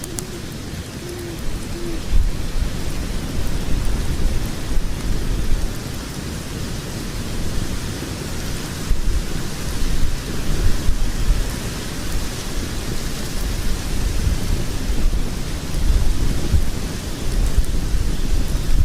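Wood fire of burning logs: a low, uneven roar of flames with scattered crackles and small pops from the wood.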